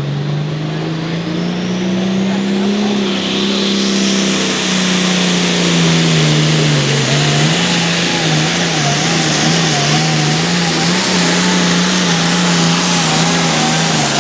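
Turbocharged diesel farm tractor engine running hard under full load, pulling a weight sled: loud and steady, with a turbo whine climbing in the first few seconds and the engine note wavering up and down after that.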